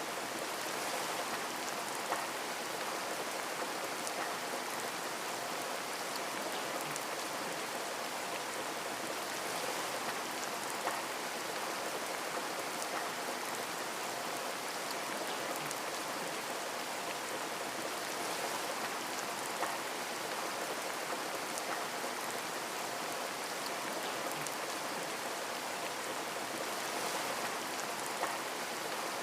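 Steady rain on a window, an even hiss of drops with a few sharper single taps standing out now and then.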